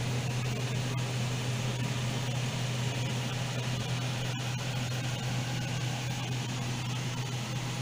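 Portable air conditioner running: a steady low hum with even fan noise.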